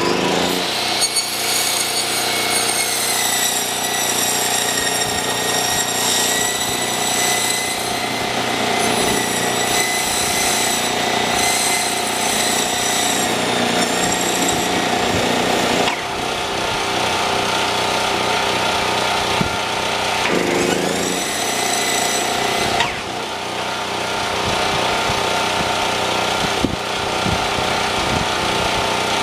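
Milwaukee 10-1/4 inch corded circular saw running and cutting through foam insulation board, a loud steady high whine that wavers in pitch. About two-thirds of the way through, the whine briefly sags and climbs back up.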